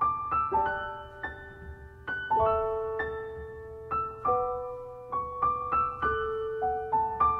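Gentle piano background music: slow chords and single notes, each struck and left to fade.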